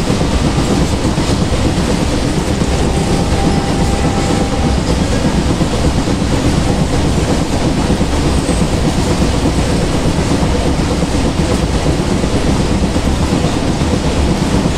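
A goods train's wagons rolling past at speed: a steady, loud rumble and clatter of steel wheels on the rails.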